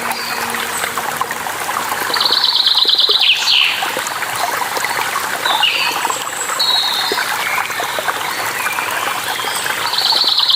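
Running water with a steady rush, under songbirds chirping; a rapid trilled bird call comes about two seconds in and again near the end.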